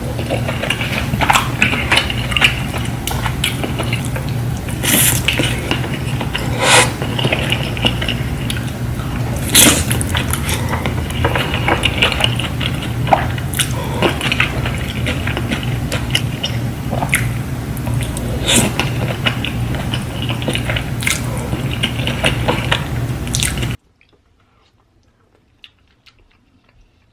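Close-miked wet eating sounds of a saucy seafood boil: squishing, sucking and chewing with many sharp clicks, over a steady low hum. It cuts off abruptly near the end to near silence.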